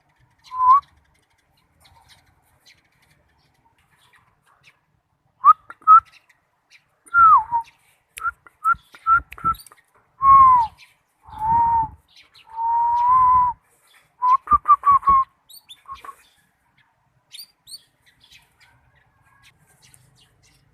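Bird calls and clear whistled notes around a caged lovebird: short single-pitch whistles, some gliding up or down and some held for about a second, come in a run of phrases through the middle. Faint, very high short chirps follow near the end.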